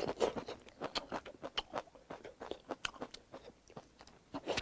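Close-up chewing of a mouthful of food: irregular wet clicks and lip smacks, several a second.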